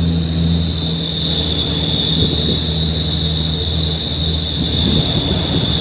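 A heavy truck's engine running steadily, with a constant high-pitched shrill tone over it.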